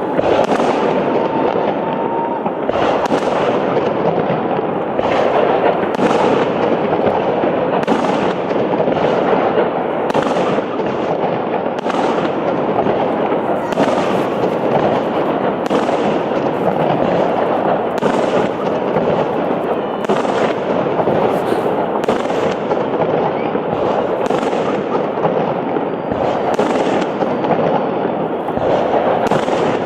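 Fireworks salute: a steady run of sharp bangs from firework shells bursting, one or two a second at irregular intervals, over a continuous dense noise of more bursts.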